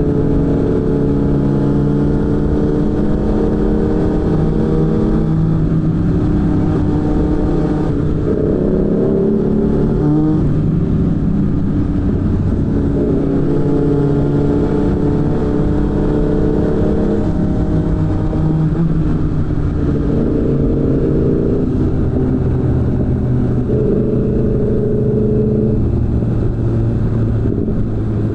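Suzuki GSF600 Bandit's inline-four engine through a BOS aftermarket exhaust under way, its pitch climbing as the throttle opens and dropping back several times, as on upshifts and easing off for bends.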